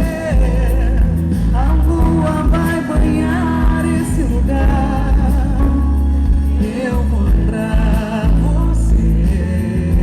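Live band music with a singing voice over it, the voice wavering in pitch over a heavy, steady bass.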